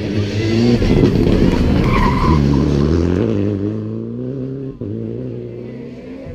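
Rally car engine revving hard as the car passes at speed, its pitch rising and falling through gear changes. It is loudest about a second in, then fades as the car drives away.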